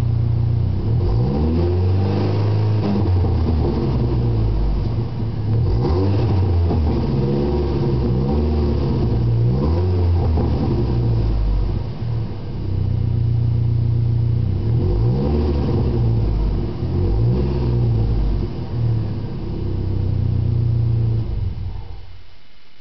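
2004 Chevy Colorado's inline-four engine, breathing through a Gibson Extreme dual exhaust, idling and being revved in several throttle blips, each rising and falling in pitch. The engine sound cuts off near the end.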